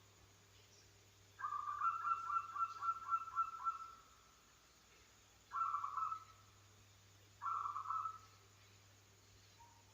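Zebra dove (perkutut) cooing: one long phrase of rapid staccato coos starting about a second and a half in, then two short phrases a couple of seconds apart.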